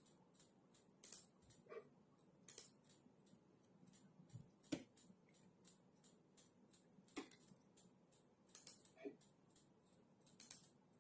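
Faint typing on a computer keyboard: irregular runs of soft key clicks, with a few heavier keystrokes standing out.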